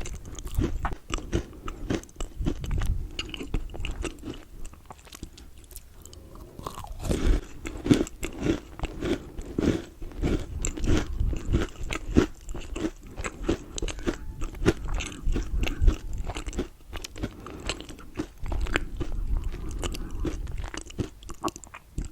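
Close-miked chewing and crunching of Milka chocolate bars: irregular crisp crunches, quieter for a couple of seconds near the middle before the chewing picks up again.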